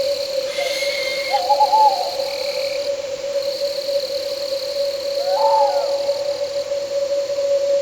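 Owl hooting twice, short wavering calls, over a steady chorus of crickets and other night insects trilling.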